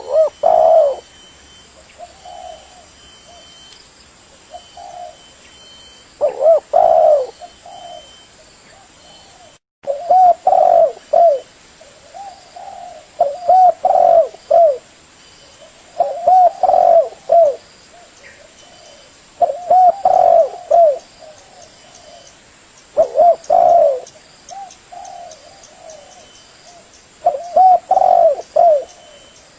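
Spotted dove (tekukur) cooing: short phrases of several loud, low coos, repeated every few seconds.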